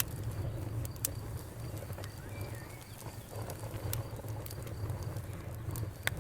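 Wood fire crackling: irregular sharp pops and snaps over a low, steady rumble of the burning fire. The strongest pops come about a second in and again near the end.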